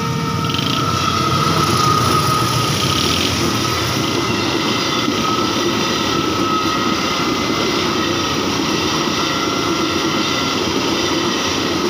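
Passenger train passing over a road level crossing: a steady rumble of wheels on the rails, loudest about two seconds in.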